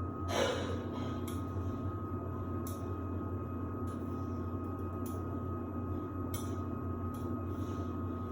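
Samsung WD70T4047CE washer-dryer running: a steady hum with a constant high whine and a few light clicks, just after something in the machine has switched on.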